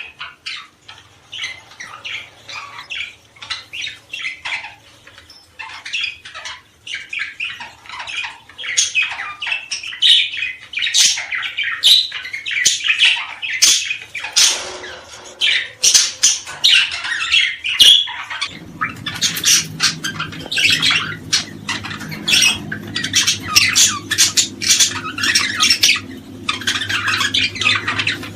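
A group of small cage birds chattering and calling, a dense run of short, quick chirps and squawks. About two-thirds of the way in, a steady low hum starts under them.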